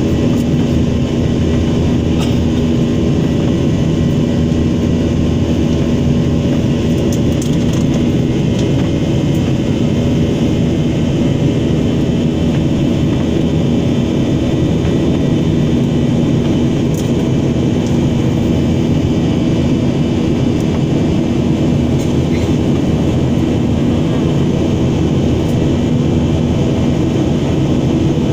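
Steady drone of a jet airliner's engines and airflow, heard from inside the passenger cabin, with a low hum running through it.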